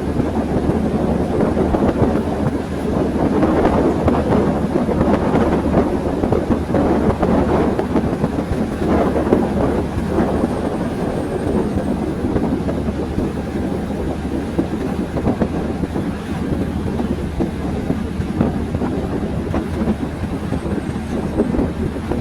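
Train running along the track, heard from aboard a carriage: steady wheel and carriage noise with no pause.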